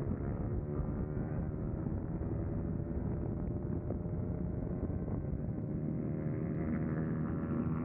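Motorcycle engine held at steady high revs while riding fast, with wind rushing over the microphone. The engine note comes through more clearly in the last couple of seconds.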